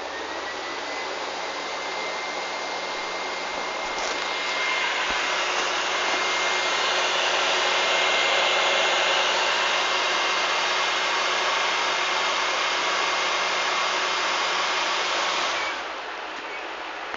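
PlayStation 3 cooling fan spinning up after the console is plugged in: a whirring rush of air with a whine that rises in pitch, then holds steady at speed. The fan cuts off suddenly near the end.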